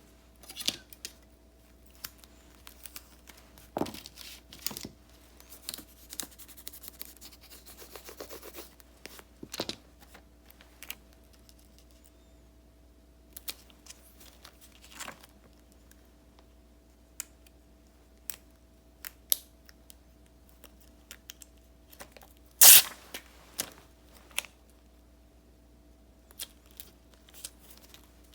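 Paper and stickers being handled and peeled from their backing: scattered small taps and rustles with a longer crinkling stretch about a third of the way in, and one sharp, much louder snap about three-quarters through. A faint steady hum lies underneath.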